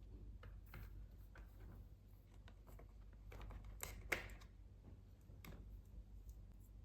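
Faint scattered clicks and light rustles of small plastic toy pieces being handled, with one sharper click about four seconds in.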